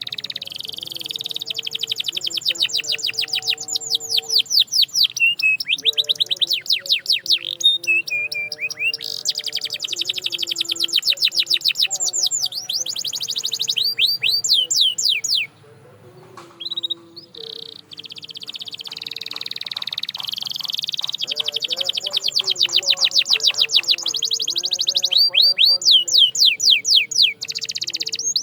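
Canary singing: long rolling trills of fast repeated notes, many sweeping down in pitch, with a short break about halfway through.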